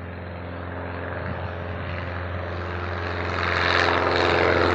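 Aeronca Champ light plane's propeller engine at takeoff power, a steady drone that grows louder as the plane rolls closer.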